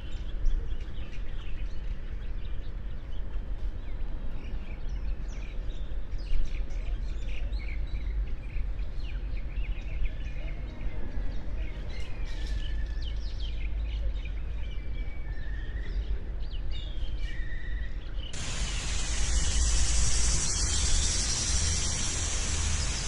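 Many small birds chirping and calling in short, quick notes over a steady low rumble. About eighteen seconds in, a loud, steady hiss cuts in abruptly and covers most of the birdsong.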